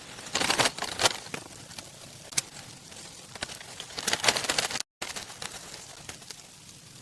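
Irregular bursts of crinkling and crackling over a steady hiss, with a brief cut in the sound about five seconds in.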